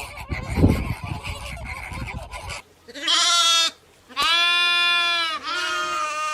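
Three drawn-out animal calls, the first one wavering, each lasting about a second, following a couple of seconds of noisy rustling with low thumps.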